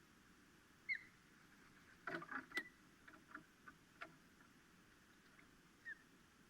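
Faint night sounds at an osprey nest: a few short, high chirps several seconds apart, and a brief flurry of clicks and rustles about two seconds in.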